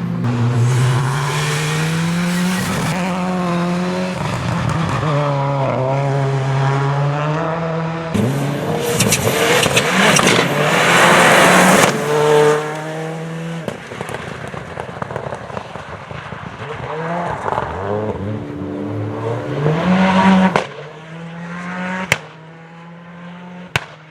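Ford Escort Cosworth rally car's turbocharged four-cylinder engine revving hard, pitch rising and falling with each gear change. A loud rushing noise swells in about a third of the way through as the car passes. The engine drops away sharply near the end, leaving a quieter background with a couple of sharp clicks.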